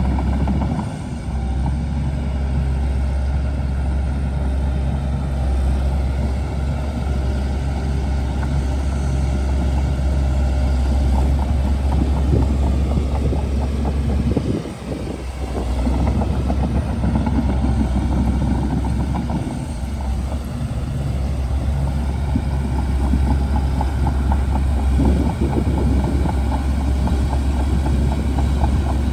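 Shantui DH17C2 bulldozer's diesel engine running under load with a deep steady drone, with continuous clanking and rattling from the machine as it works. The sound dips briefly about a second in and again about halfway through.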